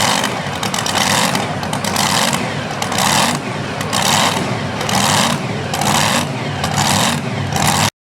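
Super modified two-wheel-drive pulling truck's engine running hard at high revs, its sound surging about once a second, then cutting off abruptly near the end.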